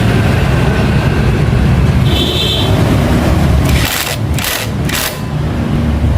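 A motorcycle engine running steadily, with three short bursts of hiss a little after four seconds in.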